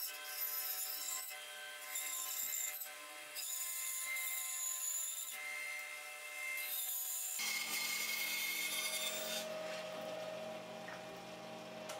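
Repeated rubbing or scraping strokes on wood, each a second or two long, over a steady hum. About seven and a half seconds in the strokes give way to a continuous hiss with a lower hum.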